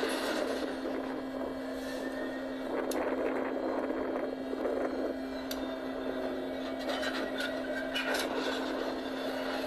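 A train rolling past: a steady rumble with a constant hum, broken by a few sharp clanks and a run of brief squeaks near the end.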